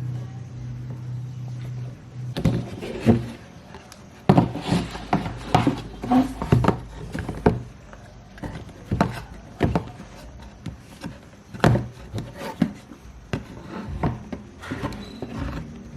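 Things being handled and set down at close range: irregular taps, clicks and knocks, with a low steady hum for the first two seconds or so.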